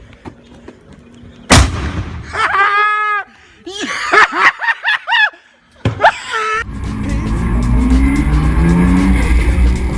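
A sudden loud bang, then a string of high pitched wavering cries. About seven seconds in, a car engine starts revving loudly, its pitch slowly rising.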